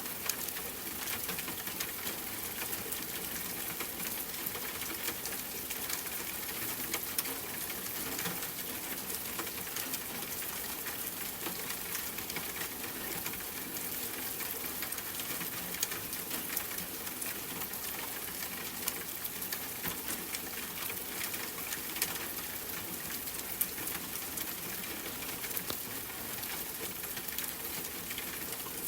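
Steady rain falling in a soft, even hiss, with scattered sharp drop ticks.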